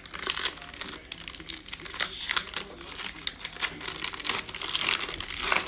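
Plastic foil wrapper of a Mosaic football card pack crinkling and tearing as the pack is opened by hand, a dense irregular crackle that grows busier near the end.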